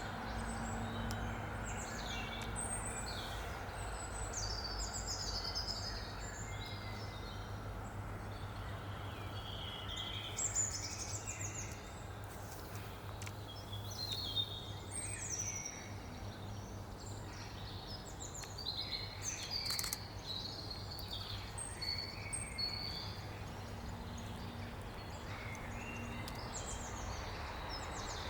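Several small birds chirping and calling back and forth, in many short overlapping phrases, over a steady low rumble of background noise.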